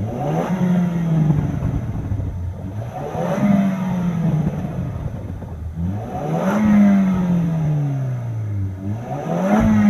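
Range Rover Evoque's 2.0-litre turbocharged four-cylinder engine and exhaust being revved four times, the pitch rising quickly and then sinking slowly back each time, about every three seconds.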